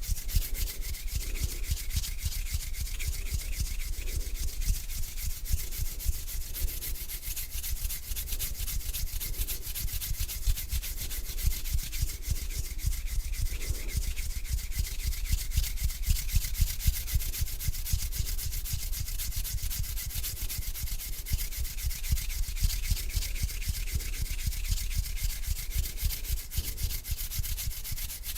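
Hands rubbing together, a continuous skin-on-skin rustle without pauses.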